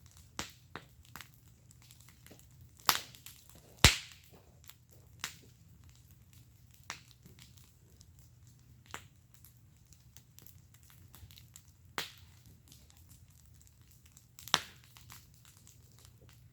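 Wood fire burning in a fire pit, crackling with scattered sharp pops; the loudest come about three and four seconds in, and again around twelve seconds and near the end.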